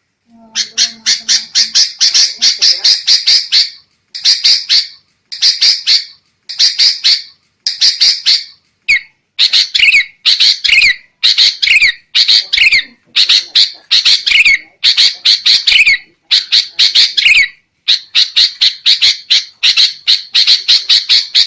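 Sooty-headed bulbul (kutilang) giving agitated, noisy chattering calls: rapid runs of short harsh notes in bursts of about a second with brief pauses, some notes sliding down in pitch in the second half. This is the excited 'ribut' call played as a lure for wild bulbuls.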